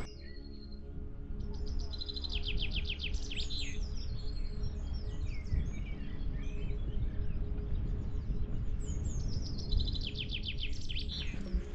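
A songbird singing twice, each song a rapid run of high notes, with scattered chirps in between, over a steady low background rush.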